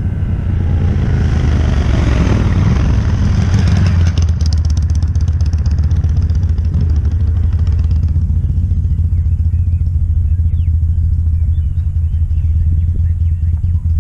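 Motorcycle engine running with a steady low rumble. Over the first few seconds a rushing noise builds up, then drops off about four seconds in.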